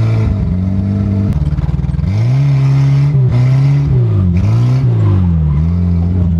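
Chevrolet Chevette's four-cylinder engine, heard from inside the cabin, revving up and down repeatedly with several sharp dips in pitch as the throttle comes on and off. The driver says it is still misfiring.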